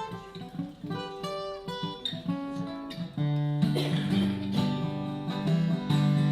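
Mesquite-bodied acoustic guitar playing a song's instrumental introduction: picked single notes at first, then, about three seconds in, louder, fuller playing with ringing bass notes.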